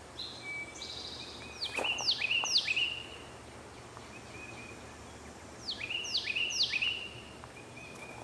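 A songbird sings two phrases of clear whistles, each a run of notes that drop steeply in pitch. The first comes about a second in and the second about six seconds in, over a steady low hum.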